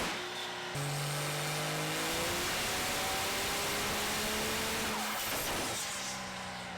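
A vehicle engine accelerating, its pitch rising steadily over several seconds under heavy noise, with an abrupt change about a second in.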